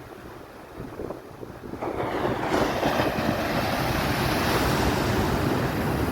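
Ocean surf and wind buffeting the microphone, swelling sharply about two seconds in into a loud, steady rush.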